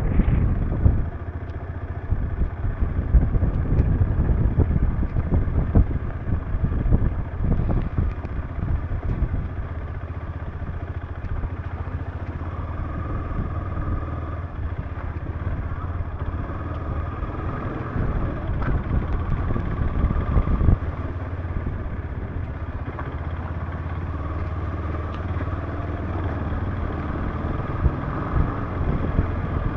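Motorcycle engine running steadily while riding, with wind buffeting the microphone in the first several seconds.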